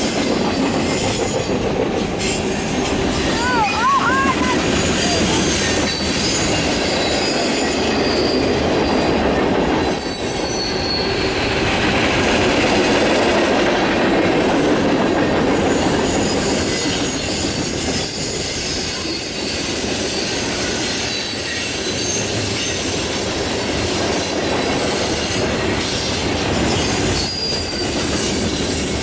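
Freight cars of a Norfolk Southern mixed freight train rolling steadily past close by: a continuous rumble of steel wheels on rail, with faint wheel squeal and clinking over the rail joints.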